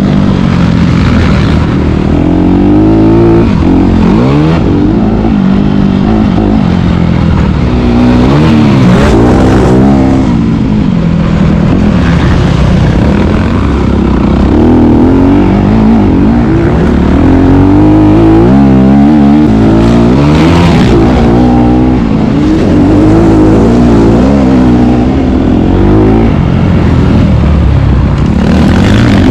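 Four-stroke motocross bike engine being ridden hard, its pitch repeatedly rising under throttle and dropping off with gear changes and braking. Loud throughout.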